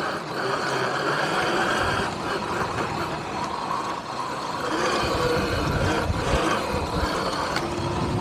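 Electric dirt bike riding along under power: a steady high motor whine over rushing wind and tyre noise, getting rougher and lower about halfway through.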